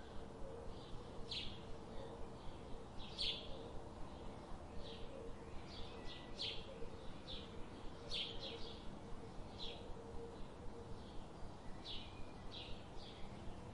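Birds chirping: short high chirps, one every second or so at uneven intervals, over a steady background hiss with a faint low hum.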